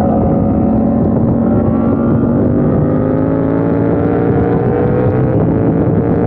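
KTM 890 Duke R's parallel-twin engine under hard acceleration out of a corner, its pitch rising steadily as the revs climb.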